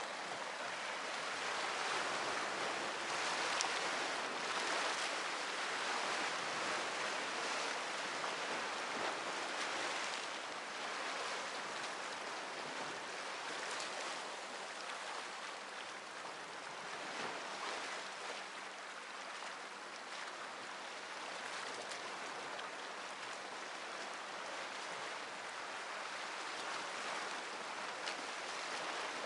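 Sea waves washing onto the shore, a steady rushing hiss that swells and eases.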